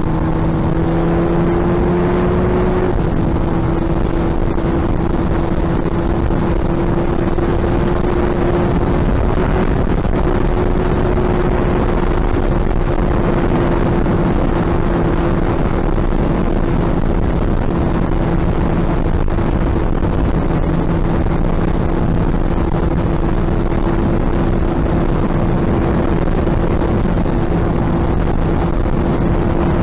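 Suzuki Hayabusa's inline-four engine running at a steady speed, its exhaust note rising slightly in pitch over the first few seconds and then holding, with wind rushing over the microphone.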